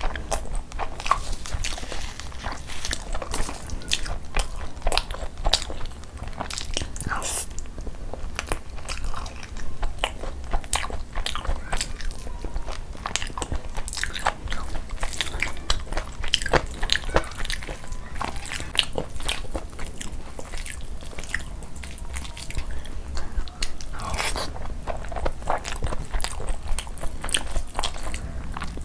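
Close-miked chewing and biting of chicken ghee roast and khichdi, eaten by hand: a constant run of quick, irregular mouth clicks and crunches over a steady low hum.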